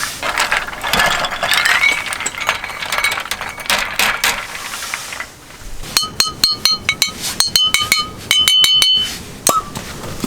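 Handling noise and clatter, then a quick run of small metallic clinks, each one ringing briefly, over about three seconds.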